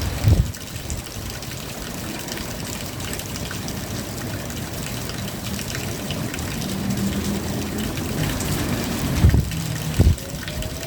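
Steady drizzle with water trickling, an even wash of noise. Short low thumps come at the start and twice near the end.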